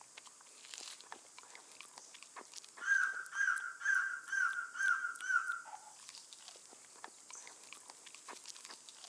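Forest wildlife ambience: scattered light ticks and rustles over a faint steady high hiss. About three seconds in, an animal gives a run of about six repeated pitched calls, roughly two a second, which stops before the six-second mark.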